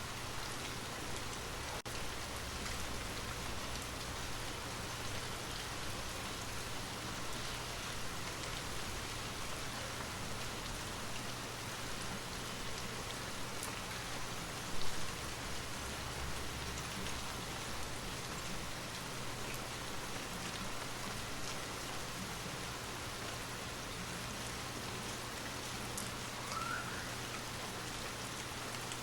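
Steady rain ambience, an even hiss of falling rain with a low constant hum beneath it. A short low thump stands out about halfway through.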